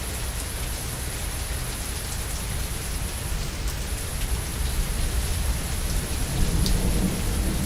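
Steady heavy rain with scattered drop ticks over a low rolling thunder rumble that grows louder near the end.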